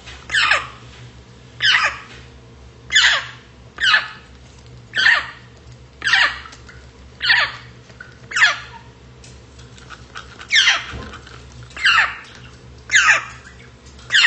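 African grey parrot calling over and over, each call a quick downward-falling note, about one a second, with a short pause about two-thirds of the way through.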